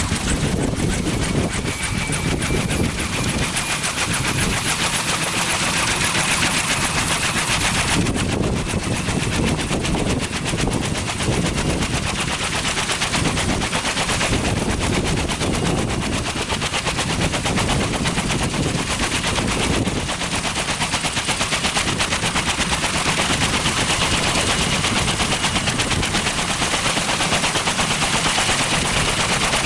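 Kaman K-MAX helicopter running with its intermeshing twin rotors turning, giving a fast, even chopping beat, over the whine of its turboshaft engine, which rises slightly in pitch.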